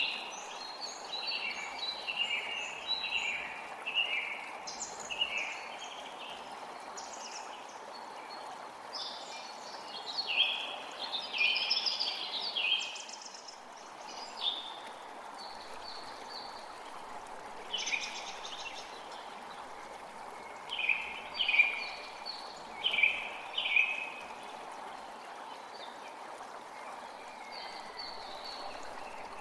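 Creek water running steadily, with songbirds singing over it in short chirping phrases. The birds are busy through the first half, call four times strongly about two-thirds of the way in, and fall mostly quiet near the end.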